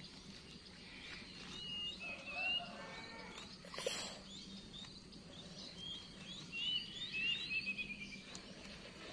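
A small songbird singing: runs of quick high chirps and short trills, once about a second and a half in and again from about six to eight seconds in. A single sharp click about four seconds in.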